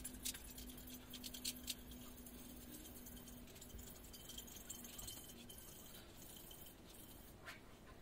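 Faint scrubbing of a 3M finishing pad scuffing a powder-coated stainless steel tumbler, dulling its adhesion-promoter coat. Light scattered clicks and rattles come mostly in the first two seconds, over a low steady hum that fades out about three and a half seconds in.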